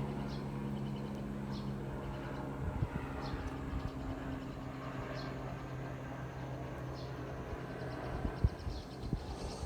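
Birds chirping, short high calls about once a second, over a steady low mechanical hum. A few dull low thumps come near 3 s and about 8.5 s in.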